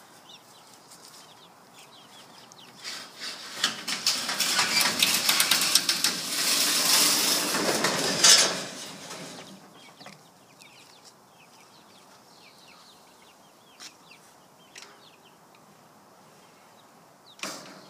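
Chickens clucking and chirping faintly inside a chicken tractor. A few seconds in comes a loud rustling, rattling commotion lasting about six seconds, and two sharp clicks follow later.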